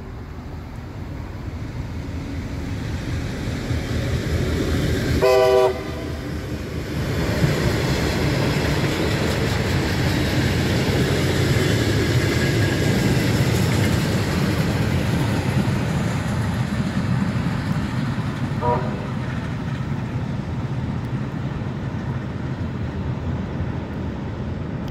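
Heritage train hauled by Victorian Railways diesel locomotives passing close by, with a rumble of engines and wheels that builds over the first several seconds and then holds. A locomotive horn gives a short blast about five seconds in, and a brief, fainter toot comes later.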